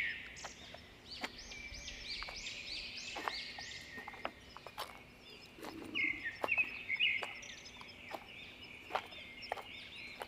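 A bird singing phrases of quick, repeated arching high notes, with the crunch of footsteps on loose stones.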